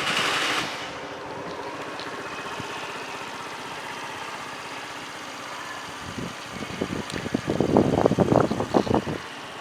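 2014 Honda Giorno (AF70) 50cc four-stroke scooter engine, just started: a brief louder rev at the very start, then settling into a steady idle. From about six seconds in, irregular rumbling gusts, like wind buffeting the microphone, come over the idle.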